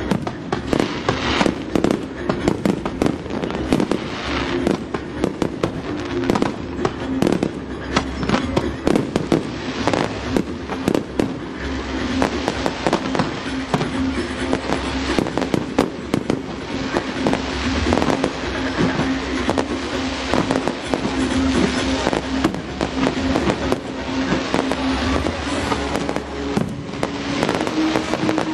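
Fireworks display going off: a rapid, continuous barrage of bangs and crackles, over a steady low drone.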